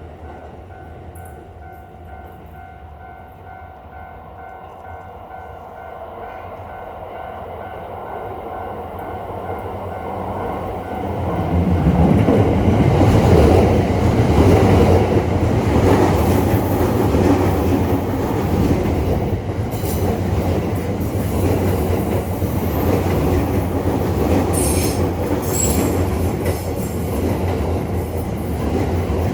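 Railroad crossing bell ringing its evenly repeated clang. About 11 seconds in a train arrives and passes close by, its rumble and rail clatter drowning out the bell, with brief high squeals from the wheels.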